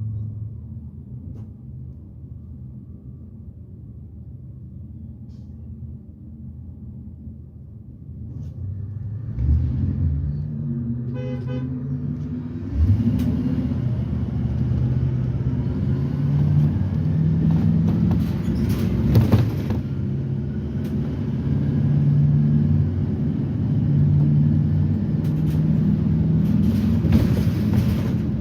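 Propane GM Vortec V8 of a Blue Bird Vision school bus idling low, then the bus pulls away and the engine rises in speed and load as it accelerates, with pitch shifts as the Allison automatic changes gear. A short pulsing horn-like toot sounds about eleven seconds in.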